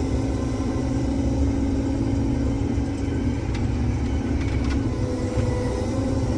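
Case IH combine harvester running steadily: a constant low engine rumble with a steady hum over it.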